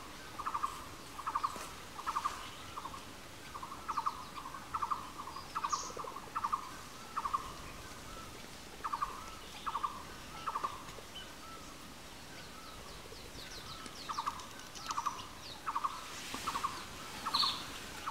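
A bird calling over and over: a short, rattling note, always at the same pitch, given in runs of two or three, with a few faint high chirps from other birds. There is a lull of a few seconds past the middle.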